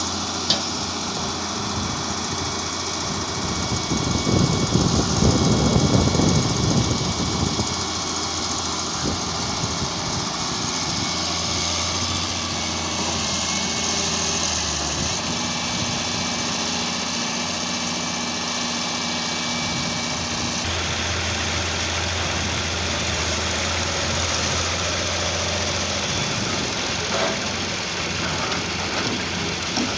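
Heavy machinery engines running steadily at a work site, with a louder rumbling swell for a few seconds near the start and a sharp click just before it.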